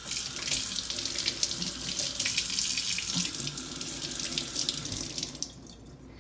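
Tap water running into a sink, turned on at the start and shut off about five and a half seconds in.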